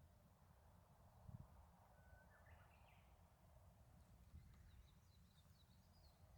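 Near silence: faint outdoor ambience with a low rumble, a short bird call about two seconds in and faint high bird twitters near the end.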